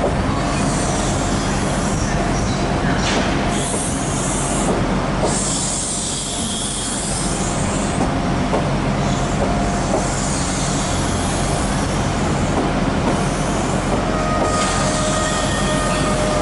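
First Great Western High Speed Train's Mark 3 coaches rolling past along the platform: a steady rumble of wheels on rail with thin squeals coming and going.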